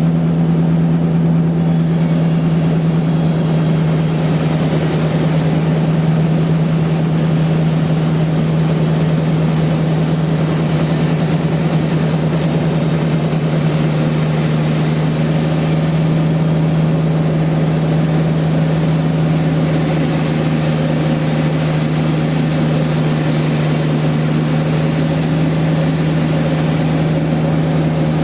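Sawmill machinery running steadily, a constant loud mechanical hum with even noise above it.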